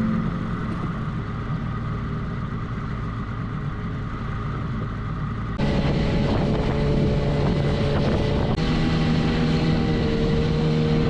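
Small dinghy outboard motor running under way: a steady engine drone whose level and pitch step up abruptly about five and a half seconds in, and shift again about three seconds later.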